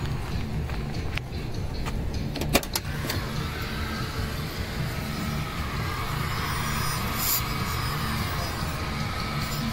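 A vehicle engine running steadily at idle, with a few sharp clicks between one and three seconds in.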